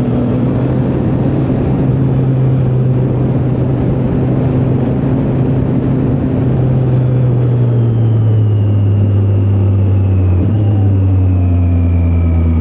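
Triumph Street Triple 765R's three-cylinder engine running at steady revs while riding, its pitch easing slowly down in the second half as the bike slows, with a faint high whine falling along with it.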